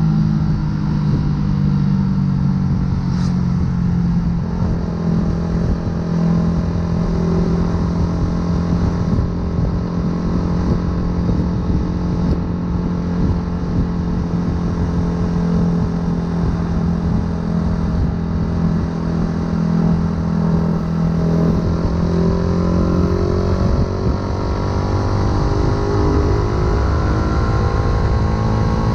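Yamaha YZF-R125's single-cylinder four-stroke engine, breathing through an aftermarket full exhaust, running at a fairly steady speed under way with wind rushing over the microphone. Over the last few seconds the engine note climbs steadily as the bike speeds up.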